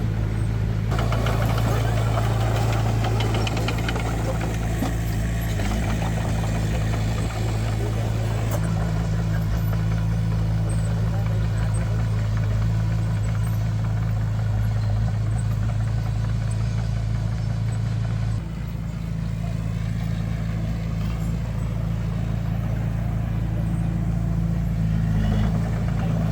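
Heavy construction machine's diesel engine running steadily with a deep, even drone; its note shifts about two-thirds of the way through.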